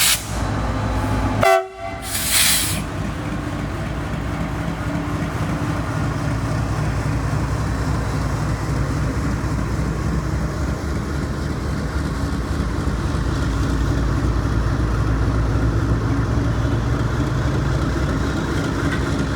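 Indian Railways WDG6G diesel locomotive's GE 16-cylinder engine running with a steady, loud low rumble. A brief loud burst comes about two seconds in.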